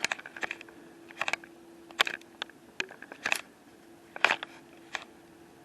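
Irregular sharp clicks and light knocks, about ten of them, over a faint steady hum.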